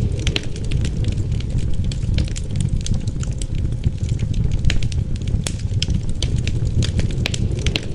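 Wood fire crackling with many irregular sharp pops, over a steady low rumble of wind.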